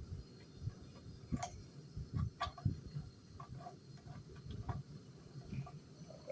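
Scattered light clicks and taps at an irregular pace, a few of them sharper, over a faint low background hum.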